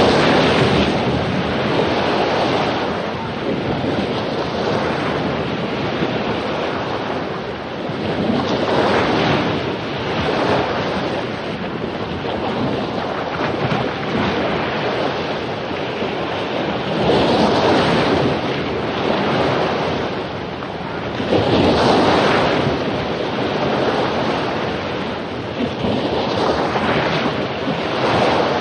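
Ocean waves breaking on a beach after a storm: continuous surf with a surge every few seconds as each wave crashes, the strongest near the middle and about two-thirds of the way through, with wind buffeting the microphone.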